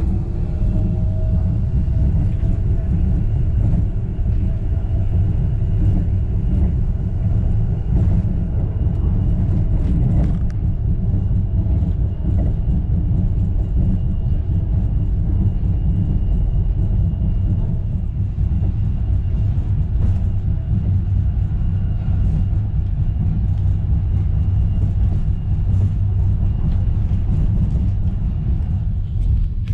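Wuppertal Schwebebahn suspended-railway car running, heard from inside the car: a steady low rumble from the wheels on the overhead rail, with a faint electric drive whine that climbs a little in pitch near the start and then holds steady.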